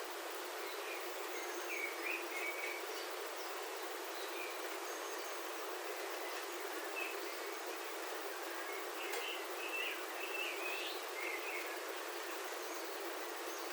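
Steady rain on a roof, heard from inside as an even hiss, with birds chirping in short bursts about two seconds in and again from about nine to eleven seconds.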